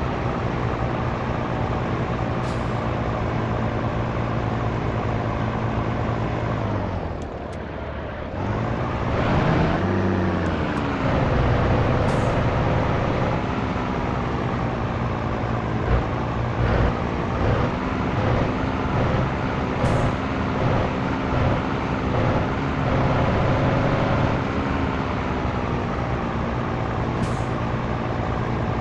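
Scania T113 truck's inline-six diesel engine running under way. Its revs sag about a quarter of the way in, then climb and fall again through a gear change. Brief short hisses come every several seconds.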